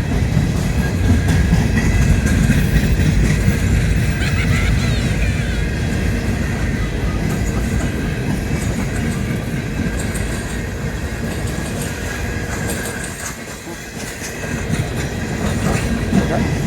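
Coal train rolling past, its cars' wheels clattering over the rails in a steady rumble, with a brief high squeal about four seconds in. The rumble dips for a moment near the end, then picks up again.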